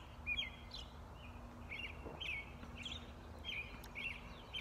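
Small birds chirping: short, high chirps repeating about twice a second, faint over a low background rumble.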